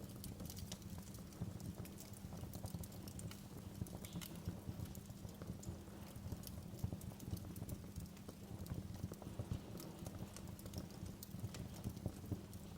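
Fire in a fireplace crackling: irregular sharp pops and snaps over a low steady rumble.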